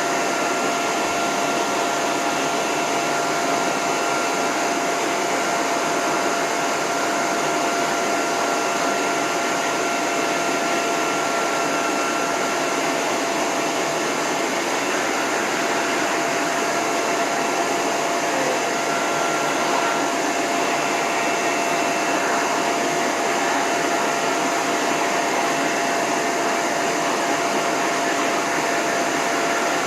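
A dog-grooming hose dryer blowing steadily with its end nozzle off: a rush of air with a steady whine over it.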